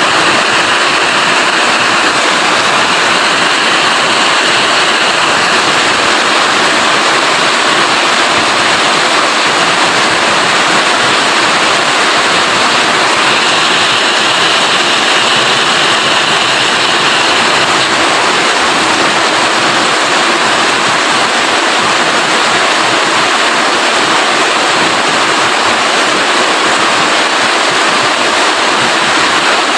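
Rain falling steadily: a loud, even hiss.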